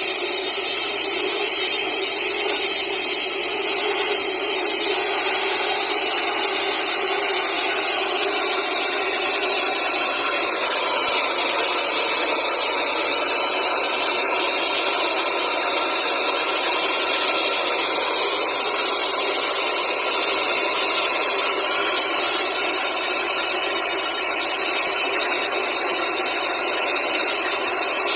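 Air compressor flushing out a bore well: a steady, loud rushing hiss of air and water together with the running machine.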